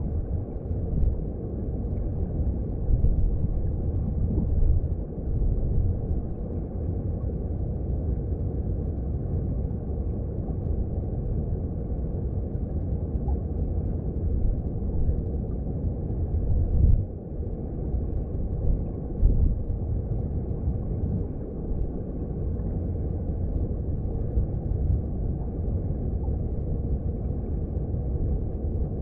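Mountain stream heard underwater: a steady low rumble of flowing water, with a few brief louder swells.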